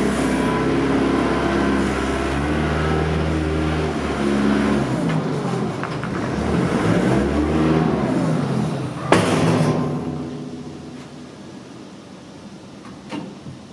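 Tractor engine running, its pitch rising and falling as it is revved, with a sharp crack about nine seconds in. After that the sound fades away.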